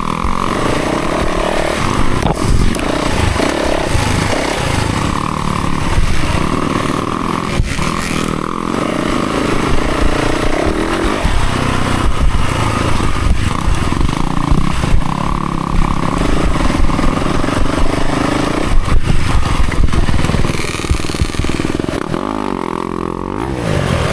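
Dirt bike engine revving up and down as it is ridden along a rough trail, with a steady rush of noise and a few sharp knocks. Near the end the revs drop, then climb again.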